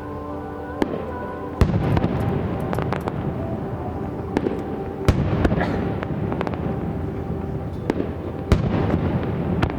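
Aerial fireworks shells bursting: several sharp booms, the strongest about a second and a half in and again near the end, each followed by a dense crackling rumble.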